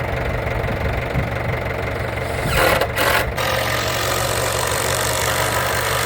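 Tractor engine idling steadily, with a brief louder rushing noise about two and a half seconds in.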